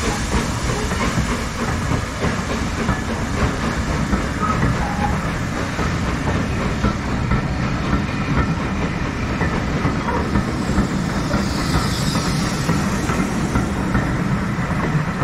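Railway train running along the track: a steady, unbroken rumble of wheels and running gear on the rails.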